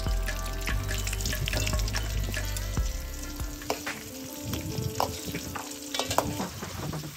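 Whole green chillies frying in oil in a metal kadai, sizzling while a steel ladle stirs them, clinking and scraping against the pan several times.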